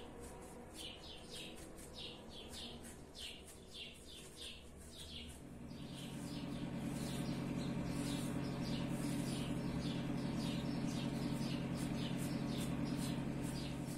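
Small birds chirping over and over, several short chirps a second. About five seconds in, a steady low hum comes in and becomes the loudest sound.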